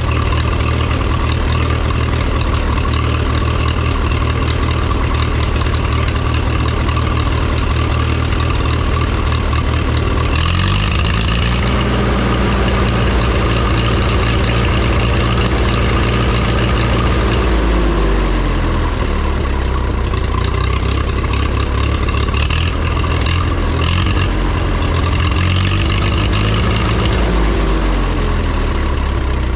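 1954 Minneapolis Moline UBU tractor's gasoline engine running after a fresh tune-up (new plugs, points, condenser and adjusted timing). It idles steadily, is revved up about a third of the way in and held there for several seconds before dropping back, then is briefly revved again near the end.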